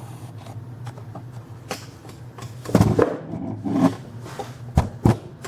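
Handling noise from a camera being moved and set up: a series of knocks and bumps, the sharpest about three and five seconds in, over a steady low hum.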